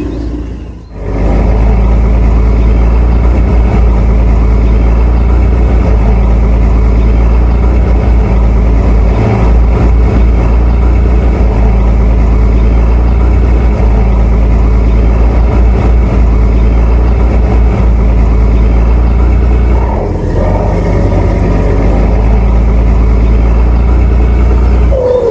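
Tugboat's diesel engine running with a steady, loud low drone; the sound drops away briefly about a second in.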